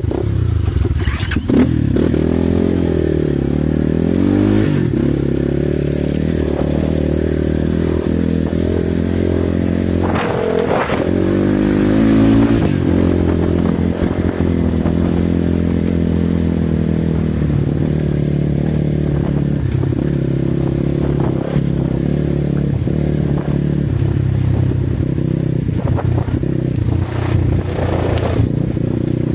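Enduro dirt bike engine running on an off-road ride, its pitch dropping and climbing again a couple of times with throttle and gear changes. A few sharp knocks and clatters break in now and then.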